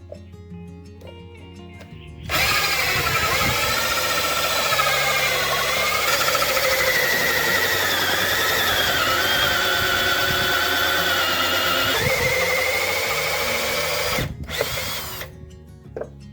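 Power drill running under load for about twelve seconds, its pitch wavering as it works, then cutting out, running again for about a second and stopping.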